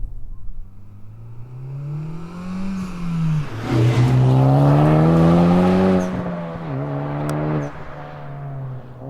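Exhaust of a Honda Civic Type R FK8's turbocharged 2.0-litre K20C four-cylinder through an HKS Hi-Power Spec-L muffler, the note climbing with the revs. It dips about three seconds in, then climbs again, louder and longer, before easing off about six seconds in and settling to a lower, steady note.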